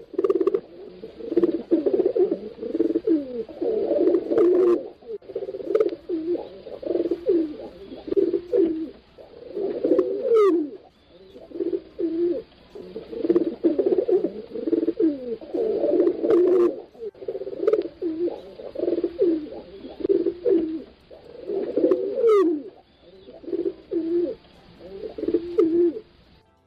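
Pigeons cooing over and over, with calls overlapping one another in a steady run of low, throaty phrases.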